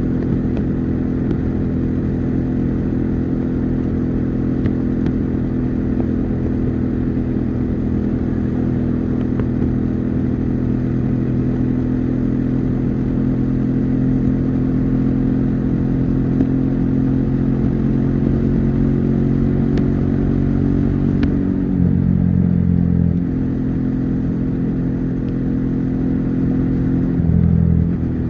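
Bajaj Dominar 400's single-cylinder engine and exhaust running steadily while the motorcycle is ridden on the highway. The engine note changes about three-quarters of the way through and again near the end, as the throttle or gear changes.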